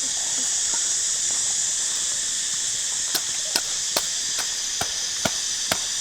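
Steady high-pitched drone of insects in the forest, with a string of sharp clicks or taps in the second half, about six of them over three seconds.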